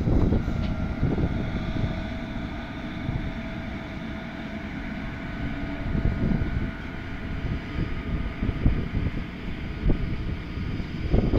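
Freight train rumbling past, with a faint steady whine through the middle; wind buffets the microphone.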